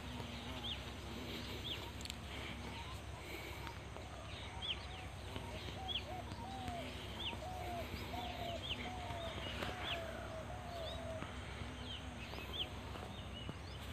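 Birds calling in the open: short high chirps repeat throughout, and from about four seconds in a run of lower, arched calls comes about twice a second before stopping near eleven seconds.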